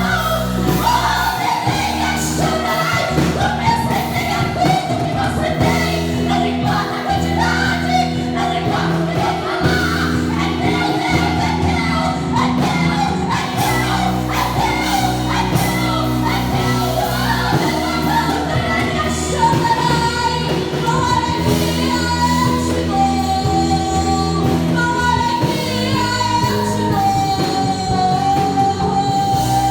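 Live gospel worship music: singing, with a female voice among the singers, over steady instrumental backing with long held low notes.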